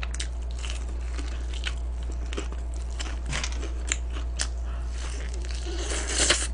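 Crunching and chewing of crispy fried chicken close to the microphone: scattered sharp, crackly crunches over a steady low hum.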